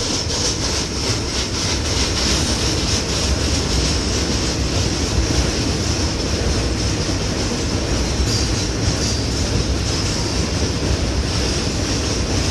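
A long freight train rolling past, its wagon wheels clacking over the rail joints, with a steady high-pitched squeal.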